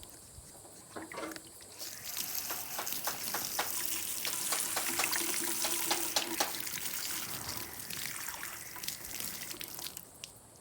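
Water trickling and splashing. It builds about two seconds in and eases off near the end.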